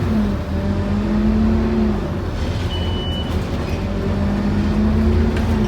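Scania N230UD OmniCity bus's engine and drivetrain running under way, heard on board, with a whine that rises in pitch twice as the bus gathers speed. A short high beep sounds about three seconds in.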